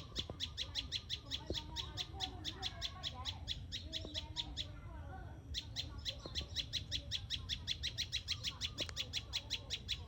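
Chickens clucking softly, under a fast, even, high-pitched chirping of about seven pulses a second that breaks off for about a second near the middle.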